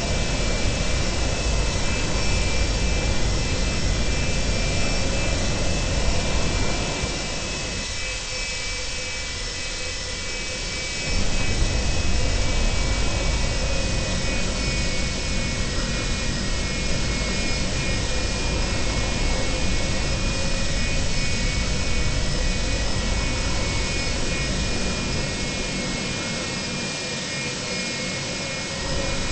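Boeing 737-200's Pratt & Whitney JT8D turbofan engines running steadily: an even rush with a constant high whine. The low rumble falls away briefly twice, once about a third of the way in and once near the end.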